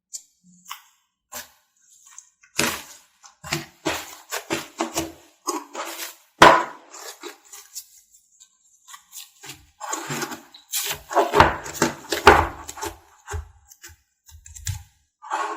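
Slime mixed with sprinkles being squished and pressed by hand: irregular sticky pops and crackles, in two busy spells with a quieter gap in the middle.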